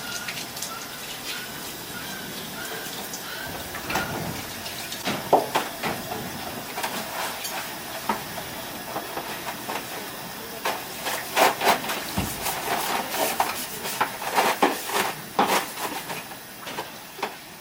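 Harris's hawk calling excitedly: a run of short, thin repeated notes at first, then a string of loud, harsh, rasping screams in irregular bursts, thickest late on.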